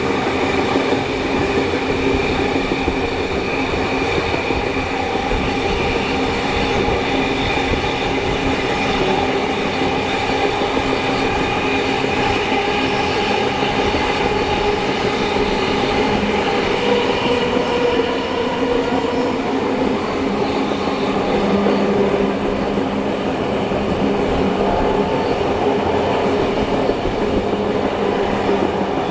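Steam-hauled heritage passenger train running along the line, heard from the train: a continuous rumble and rattle of the carriages on the rails, with several steady whining tones held throughout.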